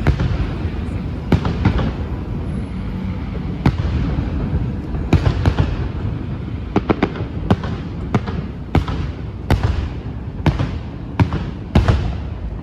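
Fireworks display bangs: a dozen or more sharp reports at irregular intervals over a steady low rumble, coming more often in the second half.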